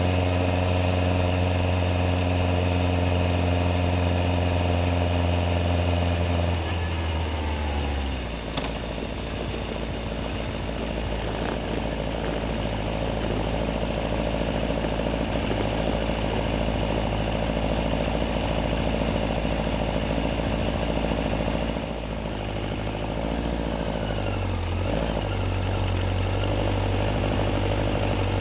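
Yamaha XJR1300's air-cooled inline-four engine running at steady revs, then falling in pitch about a quarter of the way in as the motorcycle slows. It settles to a low, even idle, with a couple of small blips in revs near the end.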